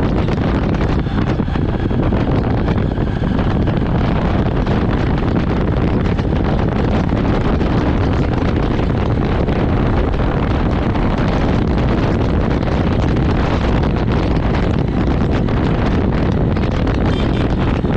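Jawa motorcycle on the move, its engine running steadily, largely buried under loud wind rush on the bike-mounted GoPro's microphone.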